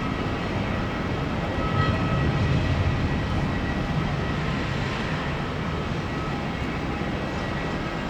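Airbus A330 airliner's jet engines giving a steady low roar as it comes in to land, swelling slightly about two seconds in, with a faint steady whine above it.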